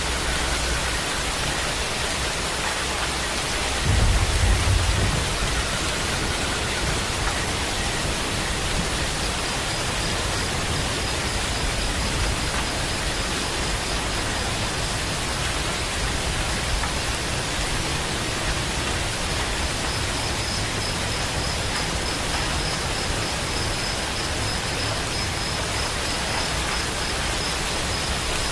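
Steady rain, an even hiss, with a short low rumble of thunder about four seconds in.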